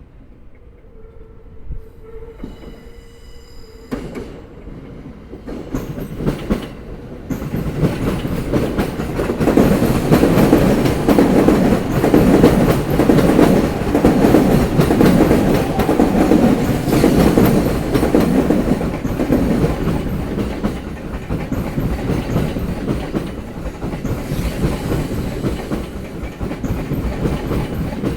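Sobu Line train running over rail joints: a continuous, rhythmic clatter of wheels hitting the joints that builds from quiet over the first several seconds and stays loud.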